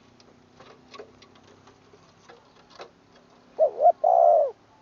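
Spotted dove cooing: two short notes followed by one longer note that rises and falls, near the end, after a few faint clicks.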